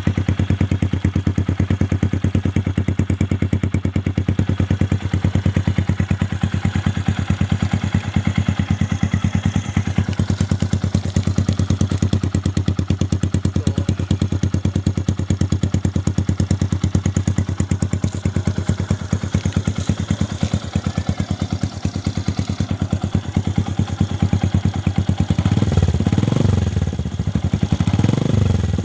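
Yamaha YTX 125 single-cylinder four-stroke engine idling steadily through its exhaust. Near the end the throttle is opened in light, uneven blips.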